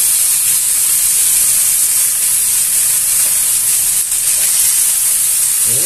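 Lamb ribs frying in a Saladmaster electric skillet, a steady high-pitched sizzle.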